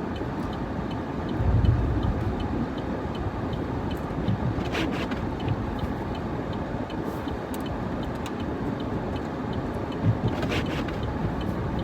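Steady road and engine noise inside a moving pickup truck's cab on snowy roads, with a stronger low rumble about a second and a half in and two brief noisy sweeps about six seconds apart.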